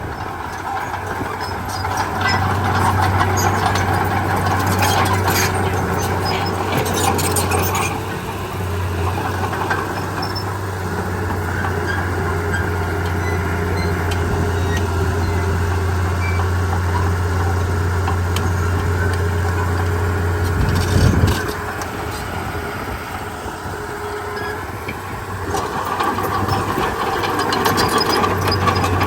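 Komatsu D31P crawler bulldozer's diesel engine running steadily under load, with intermittent metallic clanks and clatter from its tracks and blade. A brief surge and change in engine pitch comes about two-thirds of the way through.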